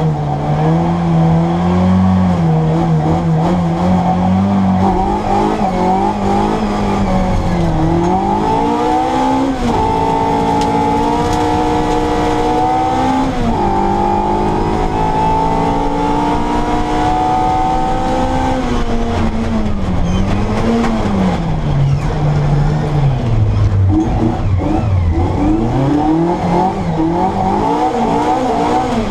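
Classic Mini Cooper S engine with an Arden 8-port cylinder head and twin Weber 40 DCOE carburettors, driven hard on a rally stage. Its revs climb and drop sharply twice as it shifts up, about nine and thirteen seconds in, are held high for several seconds, then fall and build again near the end.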